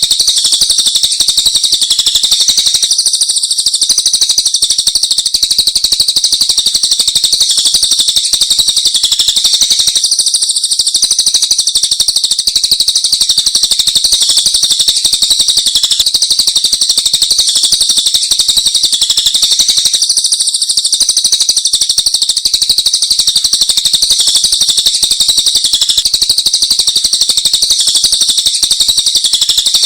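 Several songbirds singing at once in a loud, unbroken high-pitched chatter of rapid trills and chirps, a combined masteran recording of cage-bird songs used to train other birds.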